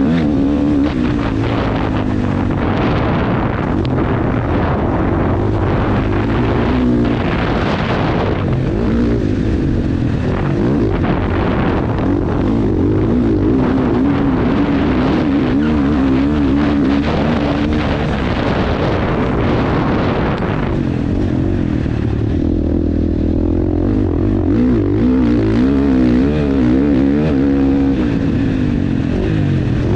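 KTM 450 dirt bike's single-cylinder four-stroke engine under riding, its revs rising and falling constantly as the throttle is worked around a motocross track.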